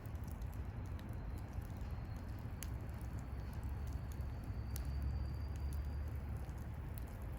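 Wood bonfire burning, with scattered sharp crackles and pops over a steady low rumble. A faint, thin high whistle runs through the middle.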